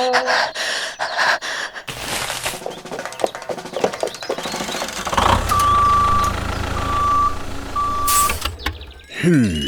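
A truck's reversing alarm beeps three times, long and steady, over a low engine rumble, after a few seconds of clattering mechanical noise.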